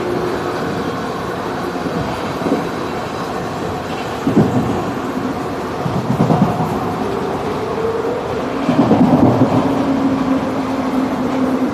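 Passenger train running on the rails: a steady rumble of wheels on track, with bursts of clatter over rail joints about four seconds in, around six seconds, and again near nine seconds, and faint drawn-out squealing tones.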